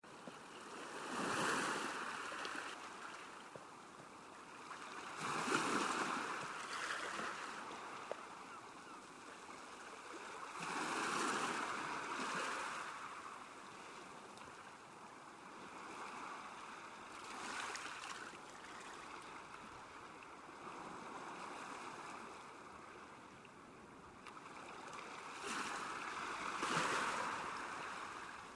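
Small waves lapping on a lakeshore, the wash swelling and falling away in irregular surges several seconds apart over a steady low rush of water.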